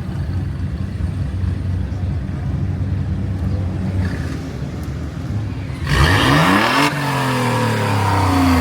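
A car engine running at a steady low idle; about six seconds in, an engine revs up loudly as a car accelerates, its pitch climbing and then falling away.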